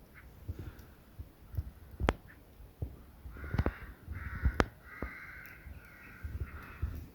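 Crows cawing: a series of harsh calls, most of them from about halfway through to near the end, with a few sharp clicks between them.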